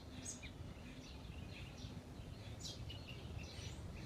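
Small songbirds chirping in short, scattered calls, one after another, over a faint steady background hum of outdoor noise.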